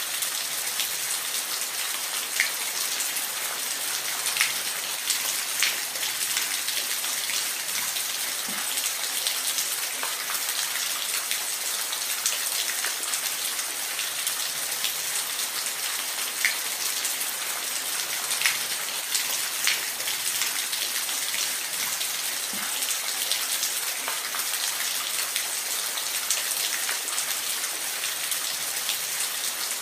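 Steady rain falling: an even hiss of rain with scattered louder individual drops ticking.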